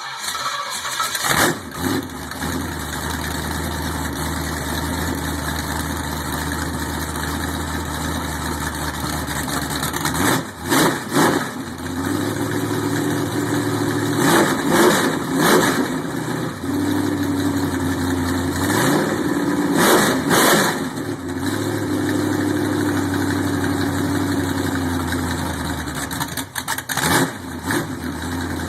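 Classic muscle car V8 idling just after starting, with the throttle blipped several times, the revs rising and falling back to idle.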